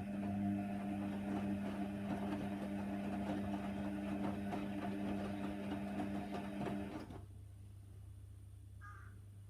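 Hoover Nextra washer dryer running mid-cycle: a steady motor hum with a rattling clatter over it, which stops about seven seconds in, leaving only a faint hum.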